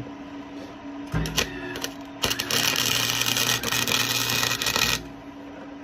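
Flux-core wire-feed welder arc crackling as a bead is run on exhaust pipe: two or three short blips about a second in, then a steady run of about three seconds that stops suddenly. A steady low hum sits underneath.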